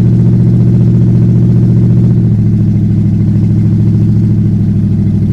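A 1974 Plymouth Cuda's mildly cammed 360 small-block V8 idling steadily through stock exhaust manifolds, still cold. The idle settles slightly lower about two seconds in. The engine is a little out of time, which the owner says needs a timing light.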